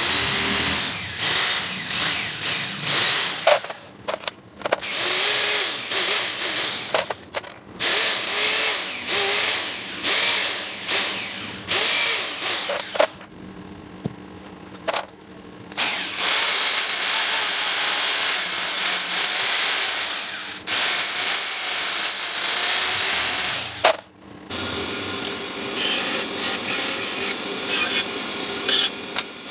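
A hand-held power tool running in spells of a few seconds with short pauses between, making a harsh, hissy noise, during the workshop restoration of a pneumatic impact wrench.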